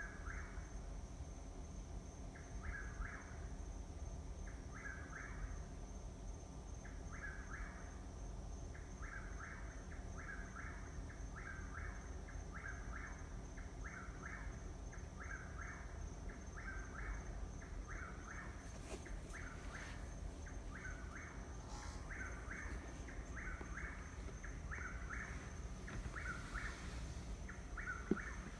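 A bird calling at night, repeating the same short phrase over and over, just under one call a second: with a few pauses at first, then without a break. A brief click comes near the end.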